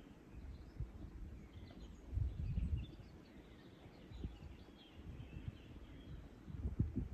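Small birds chirping faintly in short calls, over irregular low rumbling surges.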